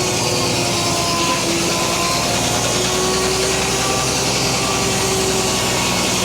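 Frick sawmill's circular blade cutting through a poplar cant in one continuous cut, a steady hiss with a faint ringing tone, over the steady drone of the engine driving the mill.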